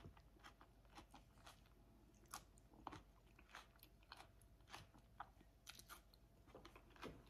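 Faint, scattered wet mouth clicks and smacks of a person chewing a mouthful of salad drenched in ranch dressing.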